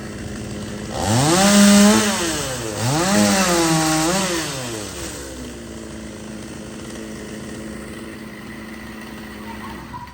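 Chainsaw engine revved up twice in quick succession, about a second in and again near three seconds, then settling back to a steady idle.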